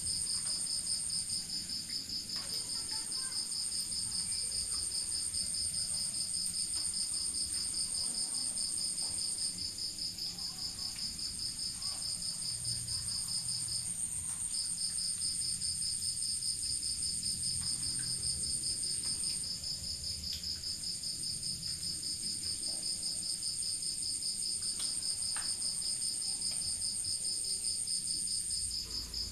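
Crickets calling continuously at night, at least two together: a lower, rapidly pulsing trill and a higher, smoother one. Each drops out briefly a few times and starts again.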